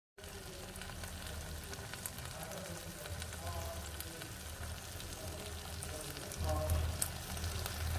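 Black chickpea and potato masala sizzling in an oiled wok: a steady sizzle with fine crackles.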